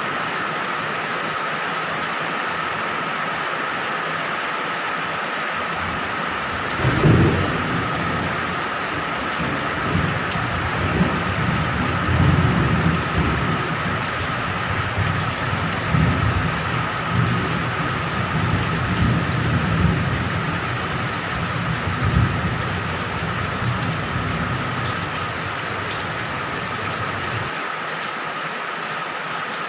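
Steady heavy rain, with thunder that breaks about seven seconds in and rolls on low for some twenty seconds in several swells before dying away.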